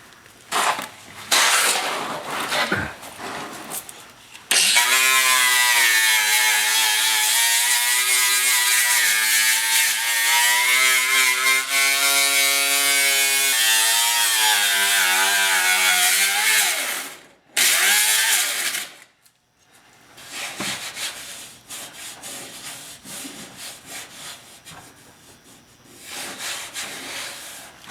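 Grinder with a 24-grit disc grinding the welded steel patch, running for about twelve seconds with its whine dipping and rising as it is pressed into the metal, then one short second burst. Quieter, irregular rubbing and handling sounds follow.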